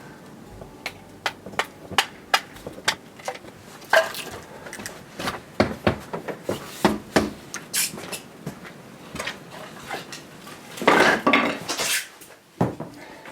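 Irregular clinks, knocks and clatters of hard objects being handled, like kitchenware, with a longer, louder clatter near the end.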